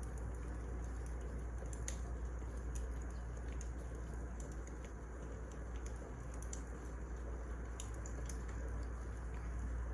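Wood fire crackling: irregular sharp pops and ticks over a steady hiss, with a low hum underneath.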